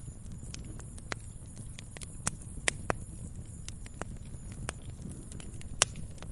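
Wood fire burning in a fireplace, logs crackling with irregular sharp pops and snaps over a low steady rumble of flame. The loudest pop comes near the end.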